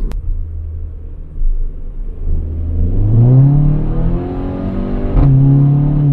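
Skoda Octavia RS with an APR cat-back exhaust accelerating: a low steady drone rises in pitch from about two and a half seconds in, breaks briefly a little after five seconds in, then holds a steady higher note.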